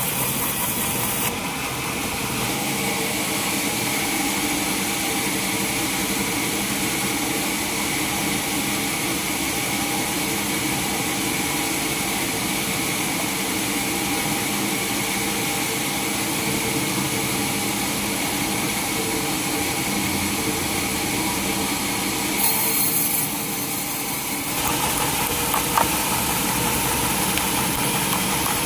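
Sawmill machinery running steadily: a motor's hum with several steady tones, the sound changing abruptly a few times, with a few sharp ticks near the end.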